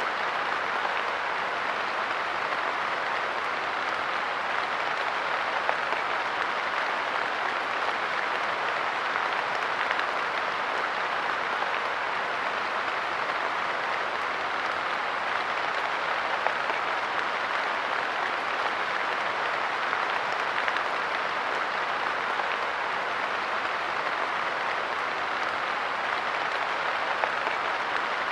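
Steady light rain falling on a park bench: an even hiss with a few slightly louder drops now and then.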